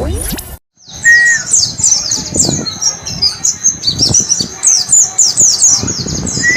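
Pleci (white-eye) song: a fast run of high, thin, downward-sweeping chirps, several a second, with a short lower whistle near the start. The song starts after a brief cut-out about half a second in. It is the 'wit wit cer' wild-style song used as training audio to teach a caged pleci.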